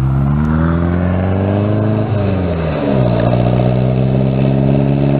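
Volkswagen Baja Bug's air-cooled flat-four engine revving up as it accelerates on a dirt road; about two seconds in its pitch drops sharply, and it then runs at a steady, lower pitch.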